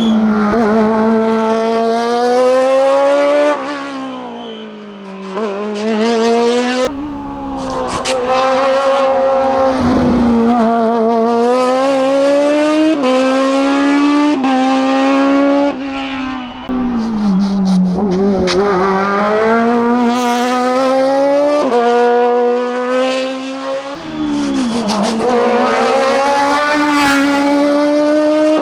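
Race car engine driven hard on a hillclimb. Its note climbs within each gear and drops sharply at several gear changes and throttle lifts.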